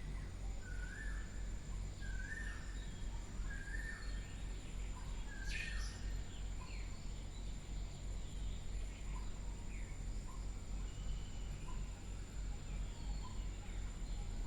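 Faint bird chirps, short calls about a second apart in the first six seconds and sparser after, over a steady low hum and a thin high whine.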